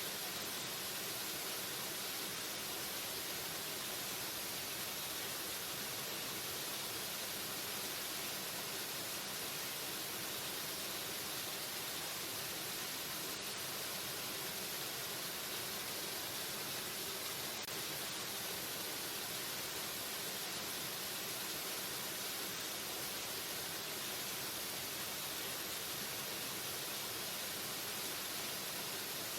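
Waterfall: a steady, unchanging rush of falling water, an even hiss that is strongest in the upper range with little low rumble.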